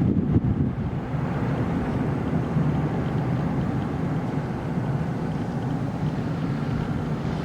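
Steady rumble of a Boeing 737-800 during its landing at the airport, the noise of the engines and rushing air, with a short louder bump about half a second in.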